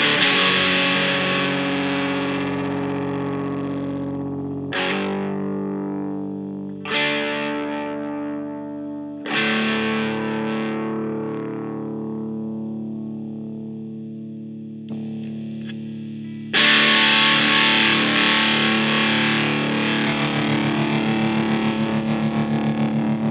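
Electric guitar played through a Fender Santa Ana Overdrive pedal: overdriven chords struck one at a time and left to ring out and fade, about six of them, then quickly repeated strokes near the end.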